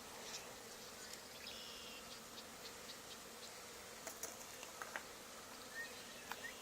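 Honey bee swarm buzzing with a faint, steady hum as the bees crawl into a hive box, with a few faint ticks.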